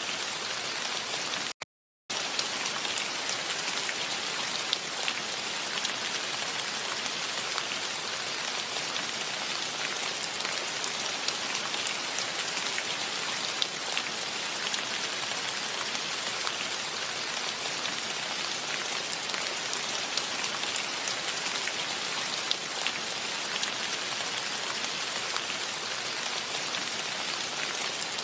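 Steady rain falling, a dense hiss with scattered individual drops ticking through it. Near the start the sound cuts out completely for about half a second, then resumes unchanged.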